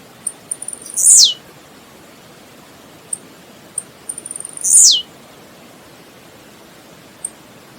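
Blue-black grassquit (tiziu) singing twice. Each phrase is a few quick high ticks followed by a loud note that sweeps steeply down in pitch, over a steady background hiss.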